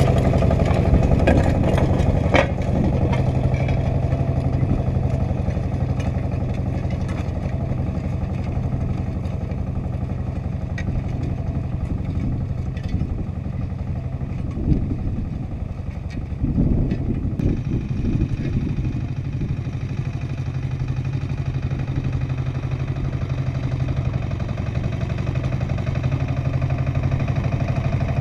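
Agria 8980 articulated tractor's engine running steadily under load while harrowing grass, with a few sharp clanks in the first few seconds and an uneven stretch around the middle.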